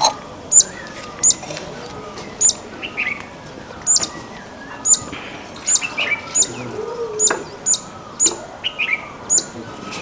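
Birds calling: a run of sharp, very high chip notes, each a quick downward flick, coming about once a second, with softer, lower chirps and short whistles between.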